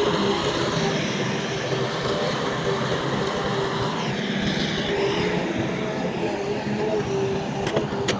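Heavy diesel earthmoving machinery running steadily, with a few sharp clicks near the end.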